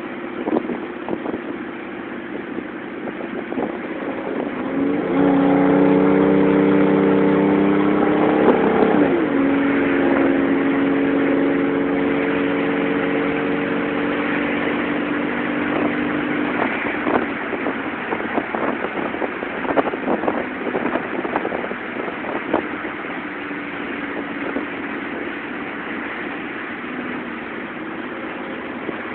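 Exhaust of a 1997 Ford F-150's 4.2L V6, running through a Flowmaster 40 muffler with the catalytic converter deleted, as the truck is driven and downshifted. A loud steady drone comes in about five seconds in and shifts pitch about four seconds later. It then fades after about sixteen seconds to a rougher, quieter engine note.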